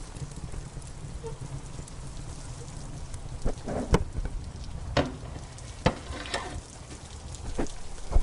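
Steady rain with a wood fire crackling, sharp pops breaking through several times, the strongest about four, five and six seconds in, over a low steady rumble.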